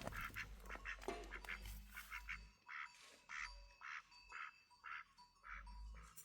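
An animal, most likely a bird, calling in a string of short, harsh notes, about two or three a second, over a low rumble that fades about halfway through.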